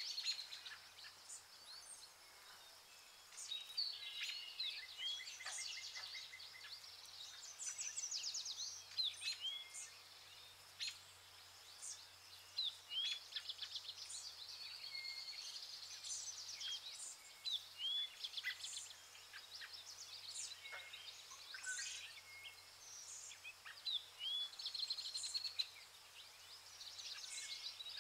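Several birds chirping and trilling at once: rapid high trills mixed with short upswept chirps, overlapping and coming and going.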